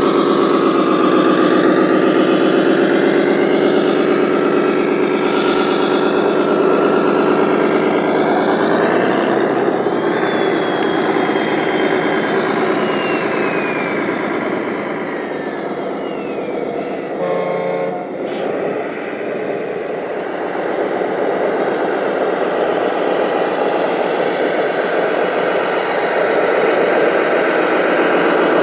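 Radio-controlled model construction vehicles running with a steady, diesel-like engine sound that wavers in pitch. Near the middle there is a falling whine, and about two-thirds through a brief pulsing sound.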